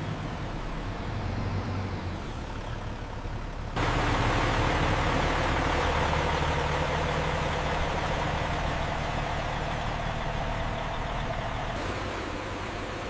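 Heavy truck diesel engine running steadily. About four seconds in, a louder hissing noise cuts in abruptly over it and stops again near the end.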